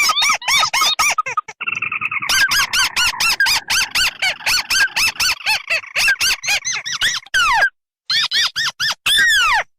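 Recorded lure calls of crakes (tikusan merah and tikusan putih) calling together: a rapid series of squeaky, arched notes about five a second. A brief buzzy trill comes about two seconds in, and a few longer falling notes come near the end.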